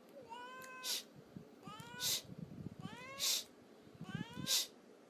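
A cat meowing four times in a row, about a second apart, each meow ending in a short breathy burst of noise that is louder than the meow itself.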